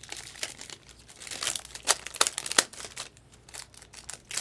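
Trading-card pack wrapper crinkling and tearing as a pack is opened and its cards handled: irregular crackles, busiest in the middle, with one sharp crackle near the end.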